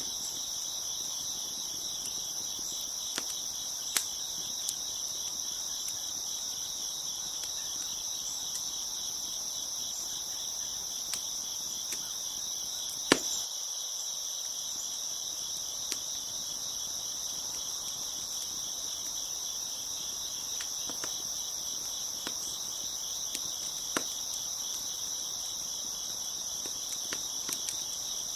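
Crickets chirping in a steady, dense chorus, with a wood fire crackling underneath: scattered sharp pops, the loudest about 13 seconds in.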